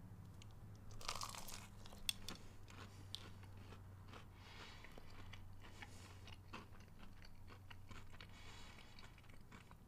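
Faint crunching and chewing of a breaded boneless chicken bite, with scattered small clicks and a sharper crunch about two seconds in, over a faint steady low hum.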